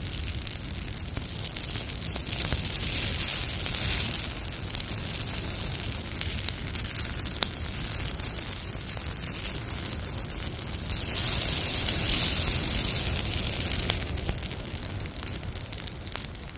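Pine needles burning on a campfire: a dense, fast crackle of fine pops over a steady hiss. It swells louder for a few seconds past the middle, then eases.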